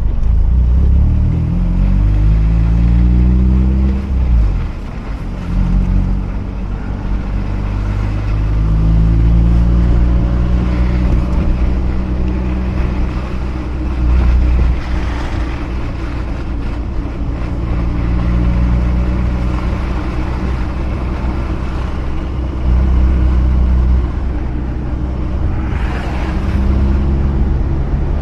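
Mazda RX-8's twin-rotor rotary engine running while the car is driven, rising in pitch as it accelerates about two to four seconds in, dropping at a gear change, then pulling at a fairly steady speed, over constant tyre and road noise.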